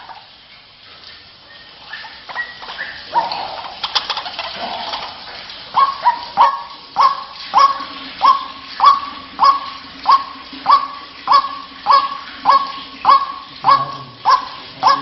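White-breasted waterhen (ruak-ruak) calling: a few scattered calls at first, then from about six seconds a steady run of short, hooked notes repeated about every 0.6 seconds, the bird's rhythmic series used as a lure call.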